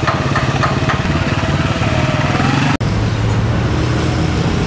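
A motor vehicle engine running steadily close by, a low even drone. It breaks off for an instant a little over halfway, then carries on.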